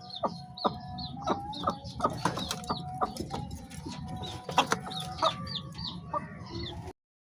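Chickens clucking, with many short calls and higher bird chirps overlapping in a busy chorus. The sound cuts off suddenly near the end.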